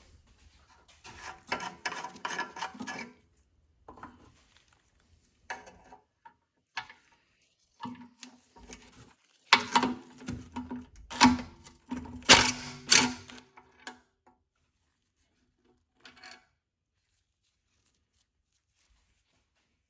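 Small parts from a replacement carburetor and gas tank kit being handled and set down: an uneven run of clicks and clatters, the loudest knocks with a short ring about ten and twelve seconds in.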